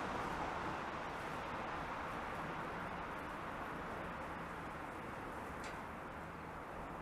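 Rushing noise of a passing train on the line, slowly fading as it moves away, over a steady low hum.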